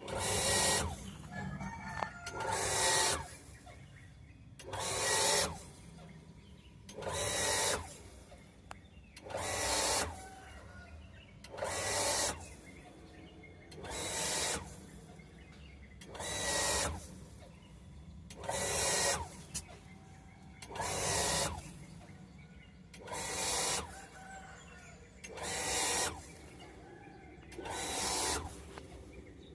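Shallow-well booster water pump short-cycling: it starts, runs for about a second and cuts out again, once every two seconds or so. This is the on-off 'cetak cetek' of a pressure switch kicking it in and out, here put down to a leaking tap.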